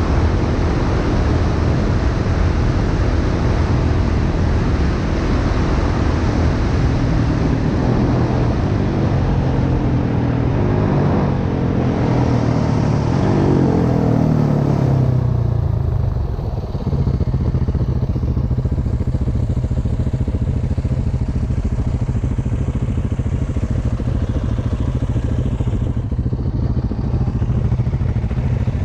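Single-cylinder dirt bike engine running under way, with wind rushing over the microphone. About halfway through, the engine note falls as the bike slows, and it settles to a steady idle.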